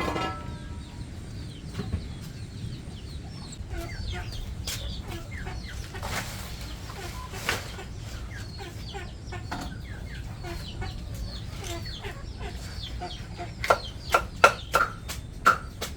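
Chickens clucking, with a quick run of loud, sharp clucks near the end.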